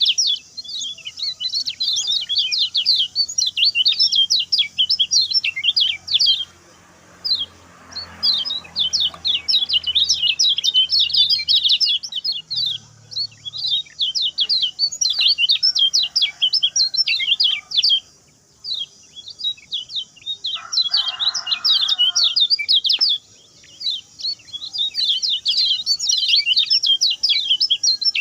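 Kecial kuning singing a fast, high twittering song of rapid chirps in long runs, broken by brief pauses.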